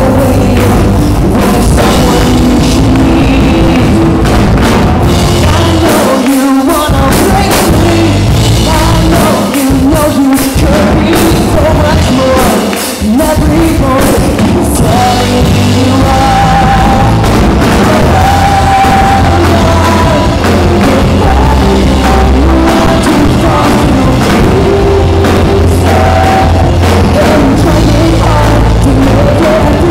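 Live rock band playing loud, with a drum kit and a wavering melodic lead line over a full low end. The bass and drums drop out briefly about six seconds in and again around thirteen seconds.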